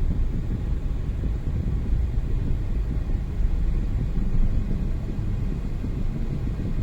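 Car driving along a city road: a steady low rumble of engine and road noise.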